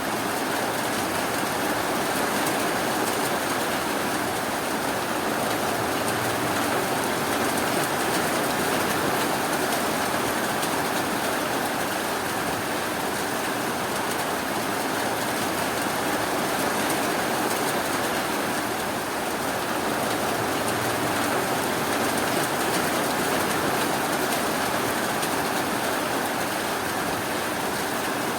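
Steady rainfall, a dense even patter with no thunder or single drops standing out.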